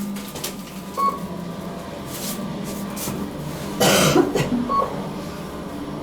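A person coughing once, just before four seconds in, over a steady low hum inside a moving elevator car. Two short high beeps come about a second in and again near five seconds.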